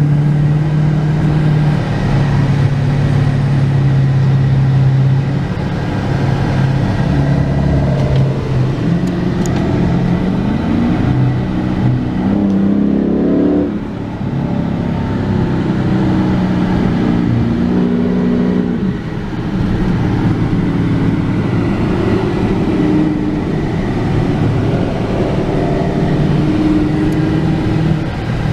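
Car engine accelerating hard, its pitch climbing and then falling back as it shifts gears, with the steepest climb about halfway through.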